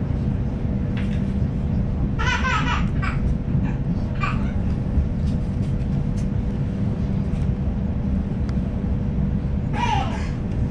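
Sydney suburban electric train running, heard from inside the carriage: a steady low rumble with a constant hum. A young child's high-pitched voice breaks in briefly about two seconds in, again around four seconds, and near the end.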